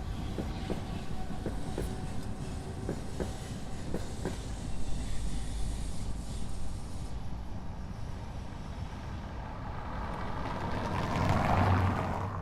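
Steady low rumble of a moving vehicle with scattered clicks, swelling louder about eleven seconds in.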